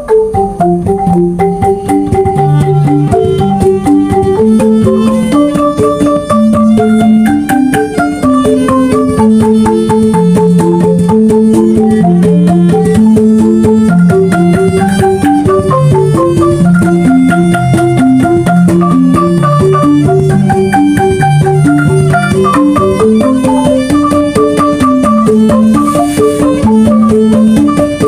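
Banyuwangi angklung ensemble playing a traditional gending: struck bamboo tubes ring out in fast runs of short notes over a repeating lower melody, at a steady loud level.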